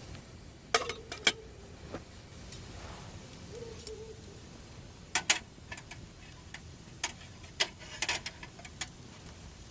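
Irregular sharp clicks and knocks, a dozen or so in small clusters. Two of them are followed by a short ringing tone, like metal being tapped, about a second in and near the four-second mark.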